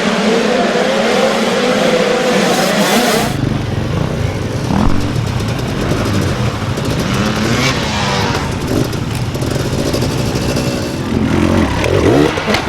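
Dirt bike engines running and revving. The sound changes abruptly a little over three seconds in, becoming fuller and lower, with the pitch rising and falling as the throttle is worked.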